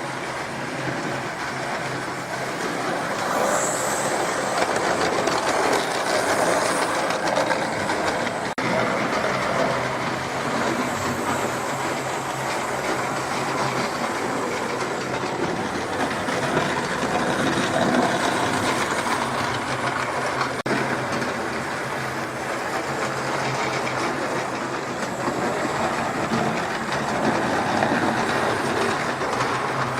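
Model train set running on its track: a steady mechanical whirr from the train's small motor and wheels.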